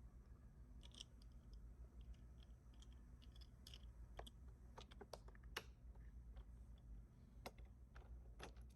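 Faint, irregular clicks and light taps of small toy cars being handled, over near-silent room tone.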